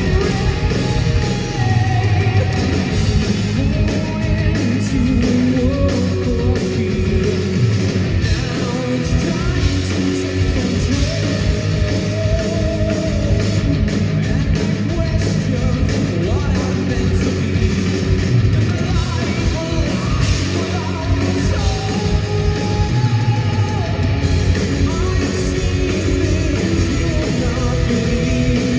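Live heavy metal band playing, with a singer, electric guitars, bass and drums.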